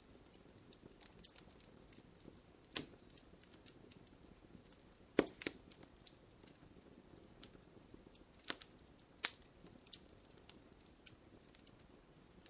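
Wood fire crackling in a fireplace: irregular pops and snaps over a low hiss, the sharpest snap about five seconds in.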